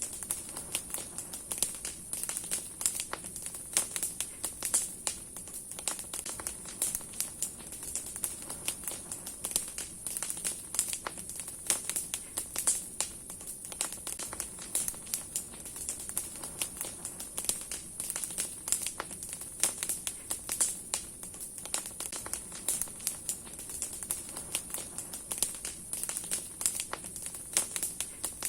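Large wood campfire burning hard, the logs and branches crackling with many irregular sharp pops over a steady hiss of flame.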